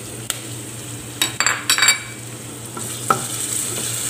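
Sliced onions and minced garlic sizzling in hot oil in a stainless steel pot while being stirred with a wooden spoon. A quick cluster of knocks and scrapes from the spoon comes about a second and a half in, and a single knock about three seconds in.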